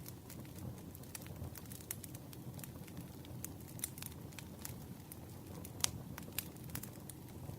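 Campfire burning: a steady low rumble of flames with frequent sharp crackles and pops, the loudest pop about six seconds in.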